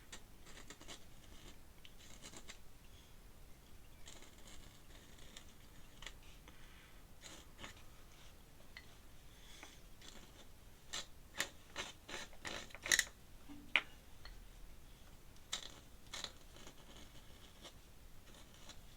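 Dip pen's metal nib scratching on paper in short strokes. A run of sharp taps and clicks comes a little past halfway.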